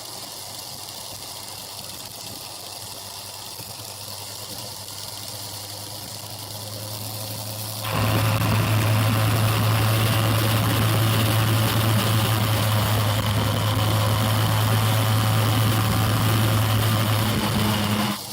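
Motorbike engine running at a steady pitch. About eight seconds in it turns suddenly much louder and stays level, then drops back sharply at the end.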